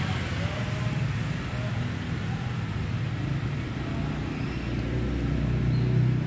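Motor vehicle engine running steadily at a low idle, a continuous low hum that grows louder near the end.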